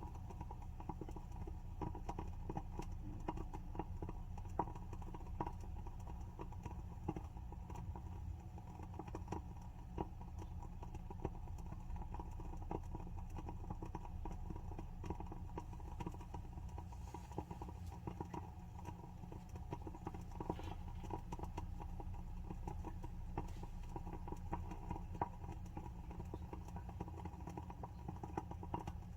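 WoodWick candle's wooden wick burning and crackling, with many small irregular pops over a steady low hum.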